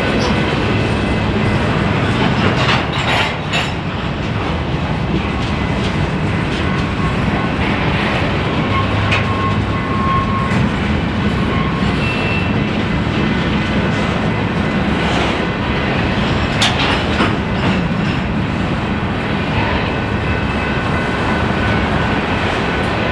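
Empty grain train's covered hopper cars rolling past: a steady rumble of steel wheels on rail, with sharp clanks now and then and a faint thin wheel squeal near the middle.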